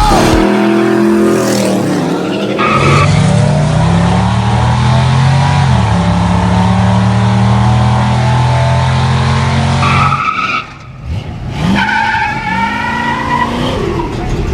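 Muscle car engine revving hard with tires squealing, as in a drag-strip burnout or launch. The engine note climbs, drops once about six seconds in, then cuts off suddenly about ten seconds in.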